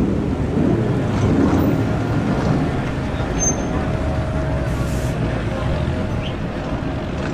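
Vehicle engines running steadily, a low rumble with faint voices in the background.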